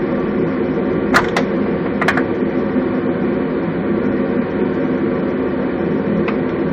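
2001 Toyota Celica GT-S's 1.8-litre four-cylinder engine running with a steady, loud mechanical noise from a bad rod bearing. A few sharp clicks stand out about one and two seconds in.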